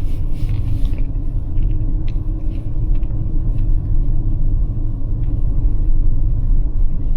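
Steady low rumble of a Toyota RAV4 Prime on Blizzak snow tires rolling over a snow-covered road, heard inside the cabin.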